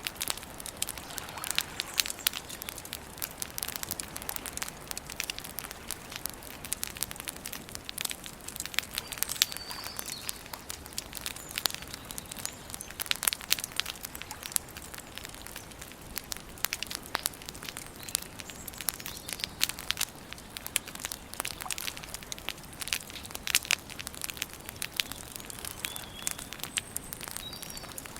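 Wood campfire crackling steadily, with a constant run of sharp snaps. Faint bird chirps come through a few times.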